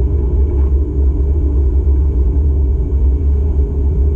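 Steady low road rumble from a moving car, heard from inside the cabin.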